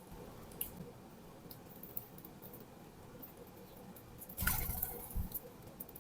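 Small scattered taps and clicks of birds pecking at seed, with a louder rustle about four and a half seconds in, followed by a soft thump.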